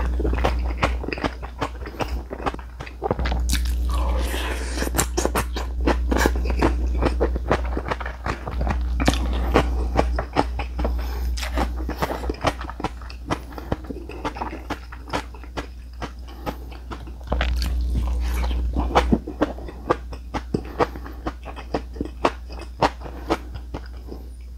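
Close-miked chewing of mouthfuls of Korean side dishes, with many quick, crisp crunching clicks and wet mouth sounds. A low rumble comes and goes underneath.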